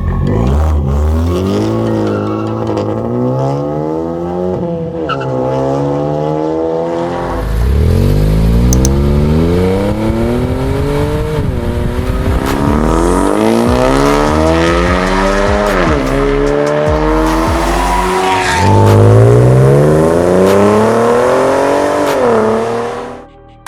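Ford EcoBoost engine breathing through an MRT stainless-steel aftermarket exhaust, accelerating hard. Its pitch climbs under load and drops sharply at each upshift, about four times.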